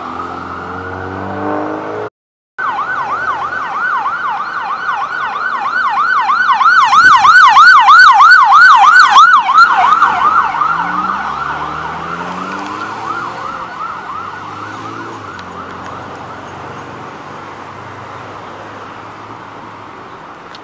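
Emergency vehicle siren going by: a slow wail, cut off briefly a couple of seconds in, then a fast yelp that grows loudest around the middle and fades away as the vehicle drives off.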